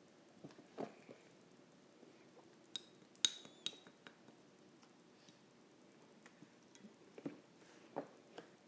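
Sparse light clicks and taps, with a brief cluster of sharper, ringing clinks about three seconds in.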